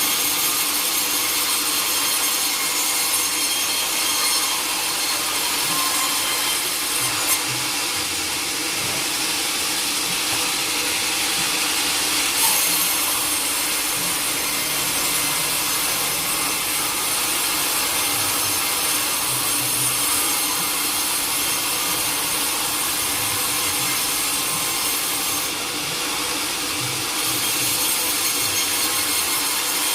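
Sawmill saw cutting steadily through a teak log, a continuous hissing cut with a couple of brief clicks partway through.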